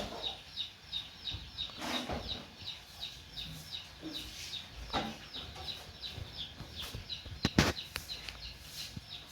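A bird chirping over and over, a short high chirp about three times a second, with a sharp knock about seven and a half seconds in.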